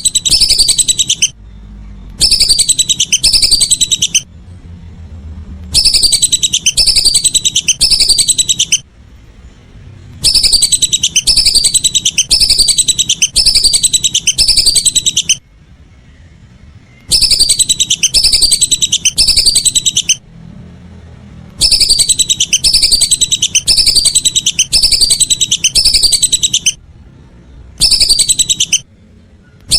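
Whistling ducks (belibis) calling: bouts of rapid, repeated high falling whistles, each bout lasting a few seconds, broken by short pauses. It is a looped call recording used to lure the ducks.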